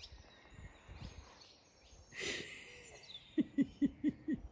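Faint outdoor birdsong, with a short noisy rustle about two seconds in and, near the end, a quick run of about six short, low calls.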